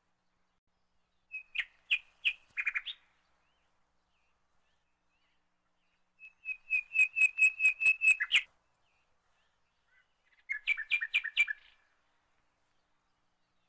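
A songbird chirping in three bursts of quick repeated notes, about five a second. Each burst lasts one to two seconds, with pauses of a few seconds between them.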